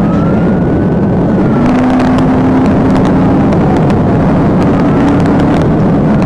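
Police siren wailing in slow rising and falling sweeps over loud, steady engine and road noise from a pursuing patrol car. A series of short clicks comes through the middle.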